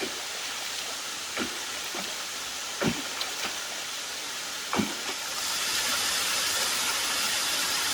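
Waterfall rushing steadily, its hiss growing louder about five seconds in, with three brief sharp sounds along the way.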